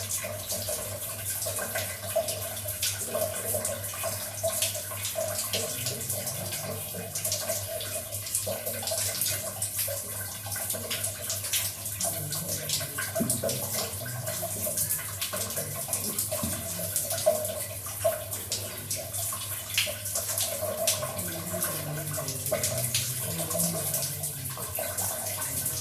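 Water running and splashing steadily, with many small splatters and drips, as a pet rose-ringed parakeet is given a bath.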